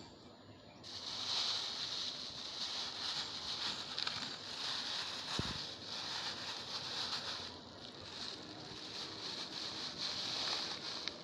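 Steady high-pitched insect drone, easing briefly about eight seconds in, over light rustling, with one sharp knock about five and a half seconds in.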